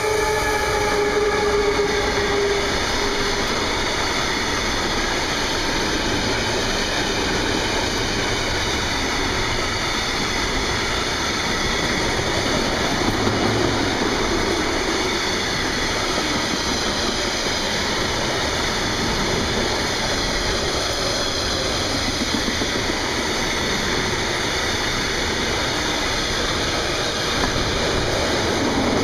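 Freight train passing with a steady, continuous rumble of wagons on the rails. A pitched tone fades out in the first couple of seconds.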